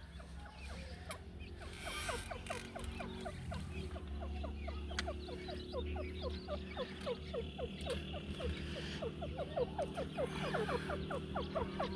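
A teetar (francolin) calling: a rapid run of short, falling chirps, several a second, growing denser toward the end, over a steady low hum.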